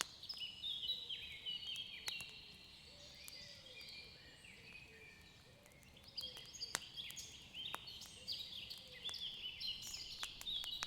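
Faint nature soundscape of small birds chirping in quick falling notes, with scattered sharp pops of a crackling wood fire.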